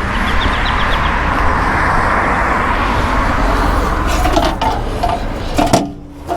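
A road vehicle passing close by: a loud rush of tyre and engine noise that builds, holds, then falls away near the end.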